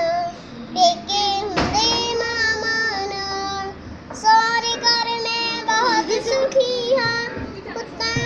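A child singing a Punjabi song solo in a high voice, holding and bending long notes, with short breaks between phrases.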